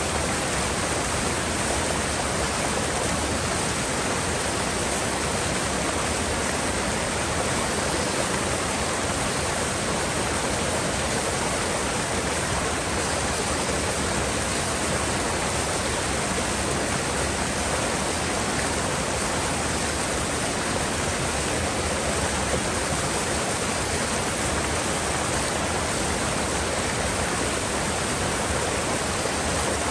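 A mountain river rushing steadily, its flowing water making a constant, even noise with no breaks.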